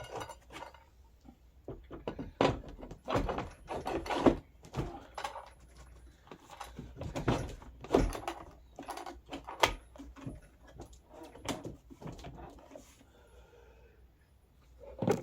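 Irregular clicks, knocks and light metallic clatter as a metal rear axle is slid through a children's ride-on quad's plastic motor assembly and a rear wheel is fitted onto it.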